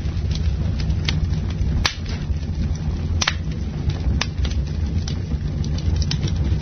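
Campfire burning: a steady low rumble with sharp, irregular crackles and pops from the burning wood, three of them louder than the rest.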